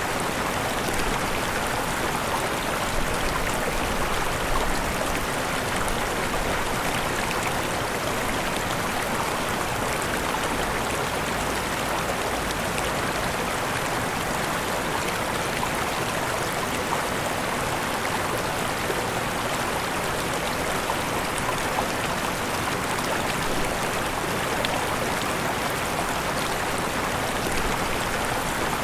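Falling water from a waterfall, a steady rushing splash with fine crackling droplets.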